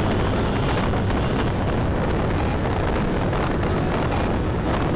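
Steady, loud wind buffeting on the microphone while riding a Yamaha Tricity 155 three-wheeled scooter, a low rumble of wind and road noise.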